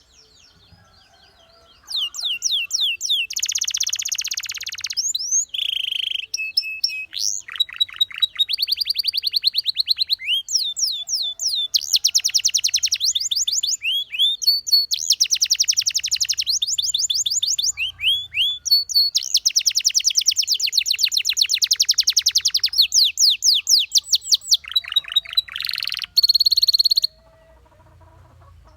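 A domestic canary singing a long song of fast trills and rapid repeated notes, phrase after phrase with short pauses between. The song starts about two seconds in and stops shortly before the end.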